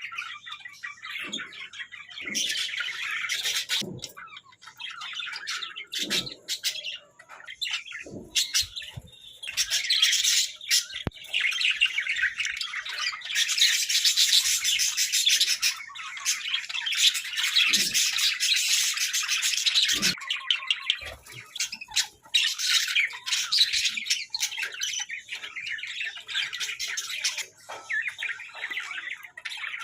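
Hagoromo budgerigars chattering and warbling without a break, a dense run of chirps and squawks that is busiest through the middle; a few soft knocks now and then.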